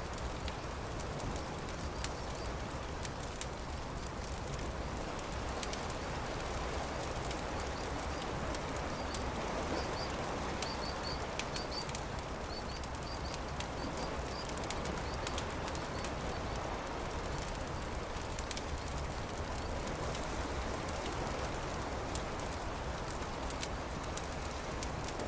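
Campfire crackling with scattered sharp pops over a steady low wash of surf. A run of short high bird chirps comes in the middle.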